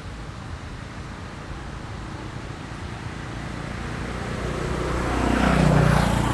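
Steady low rumble of road traffic, growing louder to a peak near the end as a vehicle passes close.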